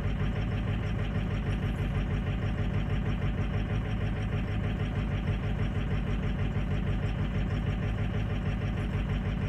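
Eight-cylinder diesel truck engine idling cold with an even, steady pulse. Some cylinders are dropping in and out from sticking (stiction) injectors, a sign that the injectors are worn.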